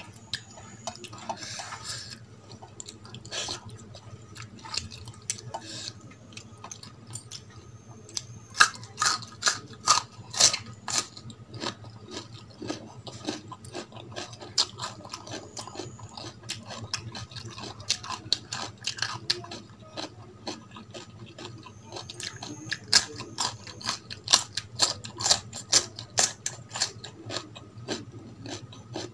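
Close-miked wet chewing and lip-smacking, a run of sharp clicks that comes in clusters. Near the start, fingers wipe curry across a stainless steel plate.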